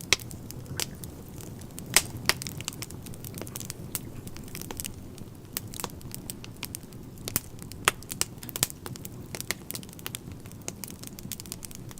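Fire crackling in a stove, with irregular sharp pops over a low steady rumble; the loudest pop comes about two seconds in.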